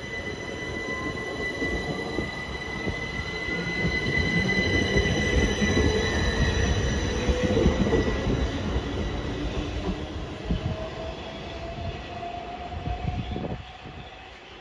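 Train passing on the rails, with steady high-pitched wheel squeal and a slowly rising whine. It rumbles louder towards the middle and fades off near the end.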